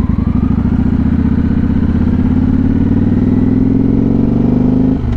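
Motorcycle engine pulling hard under acceleration, its pitch climbing steadily for a few seconds, then dropping sharply near the end as the rider shifts up a gear.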